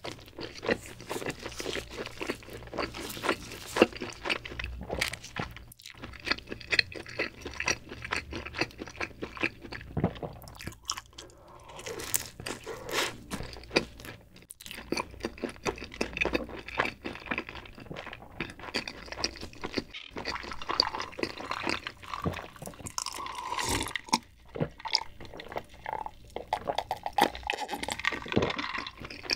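Close-miked chewing of cheese pizza crust: irregular crunching and wet mouth sounds. Near the end, gulps from a bottled drink.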